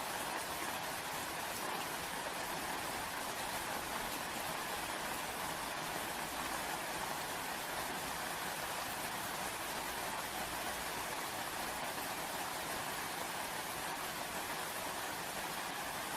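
Steady rain falling, an even hiss of drops that does not change or pause.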